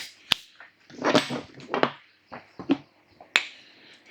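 A dog whining briefly a few times, with a few sharp clicks between.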